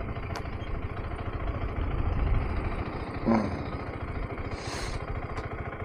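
KTM 390 Adventure's single-cylinder engine idling at low speed, a rapid, even thumping. A short pitched sound comes about three seconds in, and a brief hiss a second later.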